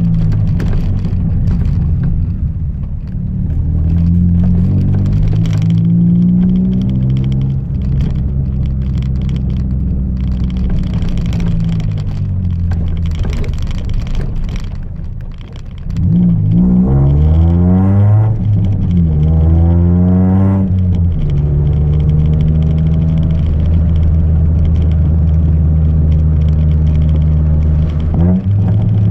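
Chevrolet Celta 1.0 four-cylinder engine running on ethanol through a 4x1 header and a two-inch exhaust with no mufflers, running steadily with a deep drone. About halfway through it is revved up and down several times, and it gives one short blip near the end.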